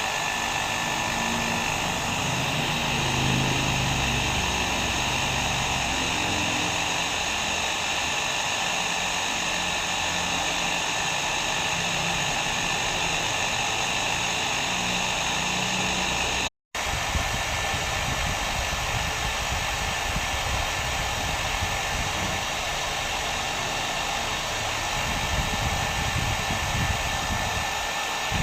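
Hair dryer blowing steadily, a continuous rushing hiss with a faint high whine from the motor. The sound cuts out for an instant about halfway through, then carries straight on.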